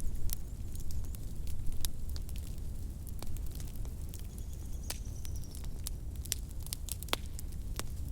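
Wood fire crackling: irregular sharp pops and snaps over a steady low rumble of the flames, with a faint high whistle briefly about halfway through.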